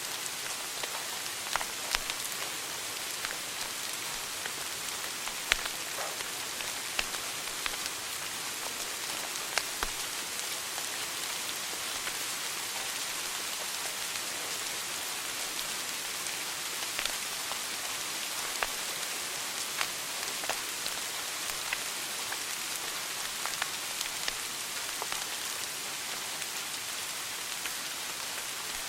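Wood fire burning in a fireplace: a steady hiss with irregular sharp pops and snaps of crackling wood.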